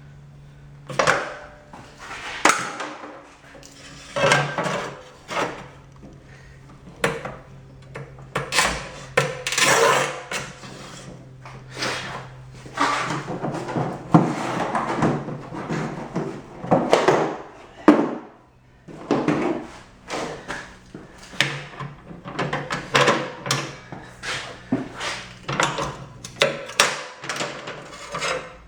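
Rubi TS50 tile snap cutter scoring and snapping tile: the scoring wheel rasping across the tile surface, with knocks and clatter of tile and the cutter's handle and carriage, in a long irregular run of short scrapes and knocks. The cutter has just had a new carriage and breaking mechanism fitted and is being tested.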